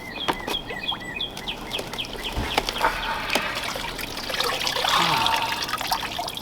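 Birds chirping in a quick run of short calls, then water sloshing and trickling in the ice-bath tub as the plunger moves. The water is loudest about five seconds in.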